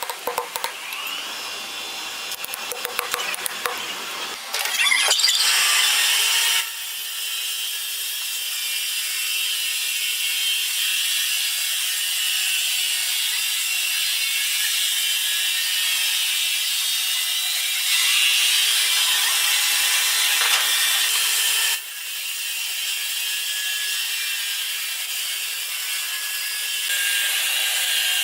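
Power saw cutting through timber: a steady, high-pitched cutting noise that rises sharply about four seconds in and shifts in level a few times, after a few seconds of light clattering.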